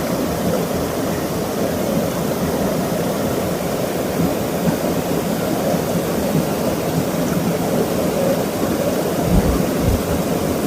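Waterfall roaring steadily, a dense rush of falling water, with a brief low thump about nine seconds in.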